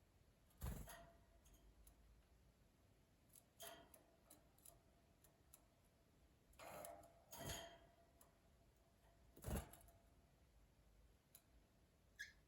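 Gloster canaries moving about in their cage: a few soft knocks and rustles spread through otherwise near-silence, with one short, faint chirp near the end.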